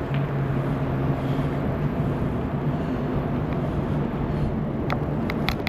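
Wind and rolling noise from a bicycle in motion, with a steady low hum through the first half and a few sharp clicks near the end.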